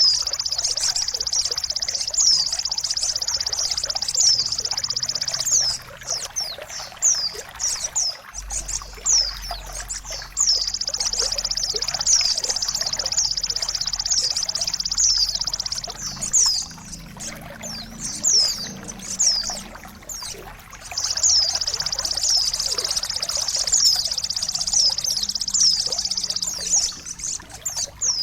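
Songbird song played for mastering: a fast, high, unbroken trill laced with many short downward-sliding whistled notes. The trill drops out for a few seconds about six seconds in, and briefly again around twenty seconds.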